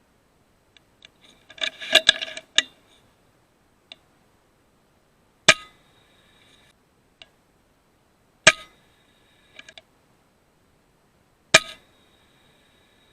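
Sharp metallic clicks, each followed by a short ringing tone. A cluster of clicks comes about two seconds in, then three single clicks at even spacing, about three seconds apart.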